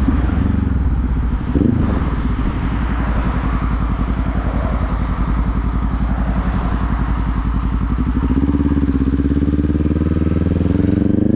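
Motorcycle engine running under way in a low gear. About eight seconds in the pitch climbs steadily as it accelerates, then it turns down near the end as the rider comes off the throttle to shift up to second.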